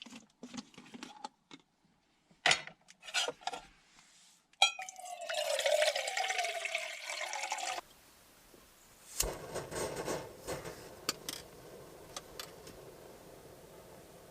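A few clicks and knocks, then water poured into a pot for about three seconds, its tone falling as it goes. After that, a thump and a faint steady hiss that carries on.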